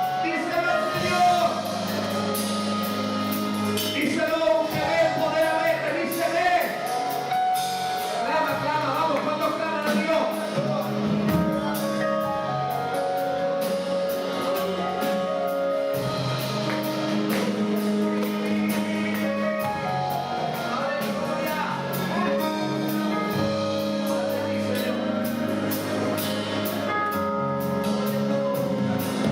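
Worship music with sung vocals and a band, drums and bass steady beneath.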